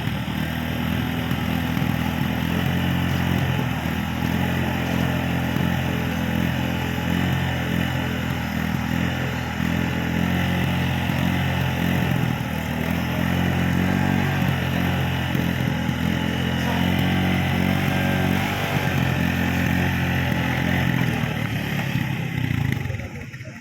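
Motorcycle engine idling steadily, then dying away near the end.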